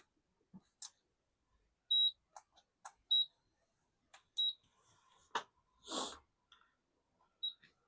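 Four short, high electronic beeps, typical of button presses on a hot-air rework station being set up for chip removal, among small clicks of tools on the board and a brief burst of hiss about six seconds in.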